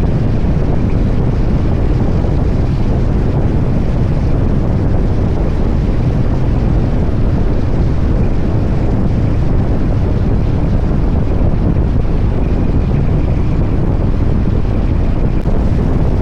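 Heavy wind buffeting the microphone on a moving motorcycle, with the steady low drone of a 2023 Harley-Davidson Street Bob's V-twin engine underneath.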